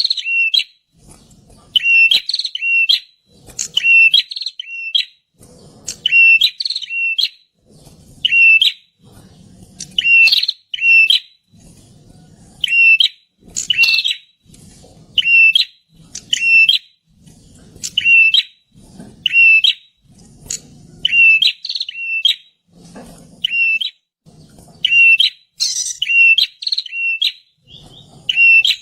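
A prinia (perenjak) singing loudly: a short phrase of quick, sharp chirping notes, repeated about every two seconds.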